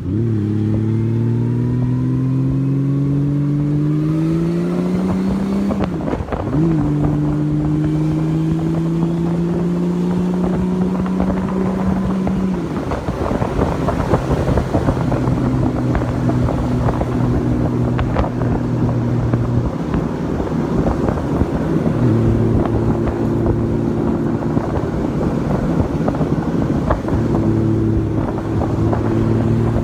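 Honda Valkyrie flat-six motorcycle engine pulling away, its pitch rising, dropping briefly with an upshift about six seconds in and climbing again. It then runs at a steady pitch with wind rushing over the microphone.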